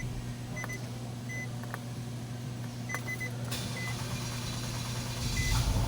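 Nissan Altima engine idling with a steady low hum. Short high beeps sound now and then, singly and in quick threes, as from the car's warning chime, with a few light clicks. A hiss comes in about three and a half seconds in.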